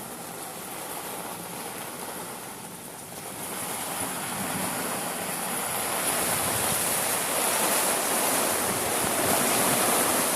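Heavy rain pouring down in a thunderstorm, a steady hiss that grows louder about three and a half seconds in and again around six seconds. No thunder is heard.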